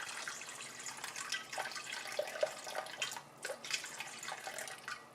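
Warm water being poured into a mixing bowl in a continuous splashing stream, stopping near the end.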